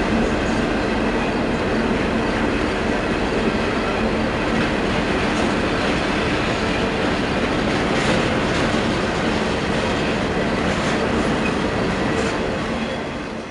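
A train rolling past, its cars' wheels running over the rails with a steady clatter, the sound falling away near the end as the train goes by.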